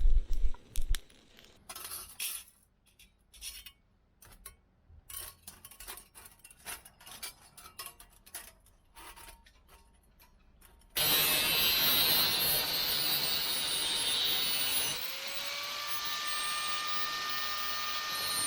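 Light clinks and knocks of small metal camp gear being handled, then a sudden loud, steady rushing noise that starts about eleven seconds in and keeps on.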